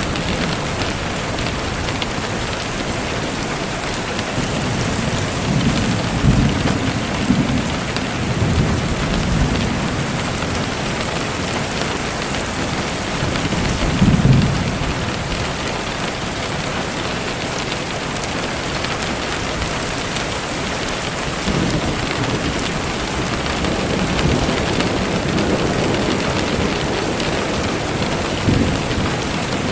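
Steady rain falling on a surface, with several low rumbles of thunder; the strongest comes about fourteen seconds in.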